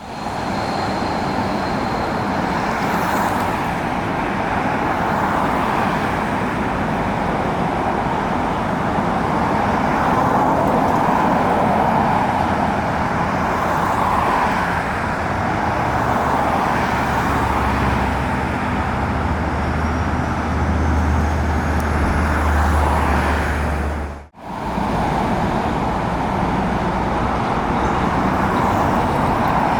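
Steady outdoor engine roar, jet or road traffic. A deep low rumble swells in past the middle and drops out at a brief break near the end.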